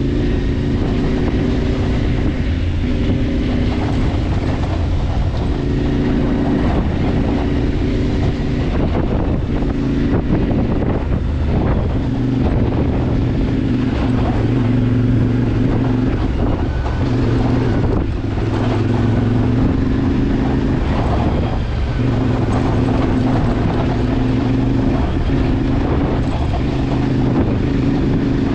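CFMoto motorcycle engine running steadily under way, its pitch holding fairly even with small dips in speed.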